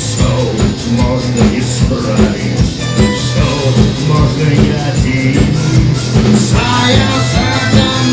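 Live rock band playing: a steady drum beat with bass and electric guitar. A brighter, higher lead line comes in about two-thirds of the way through.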